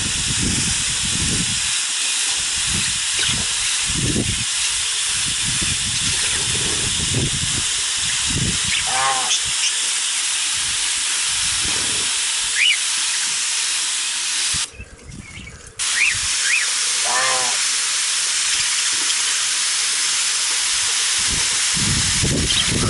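Water mister spraying a continuous hiss of fine spray over budgies in their cage. The spray cuts out for about a second about two-thirds of the way through. Budgies give a few short chirps.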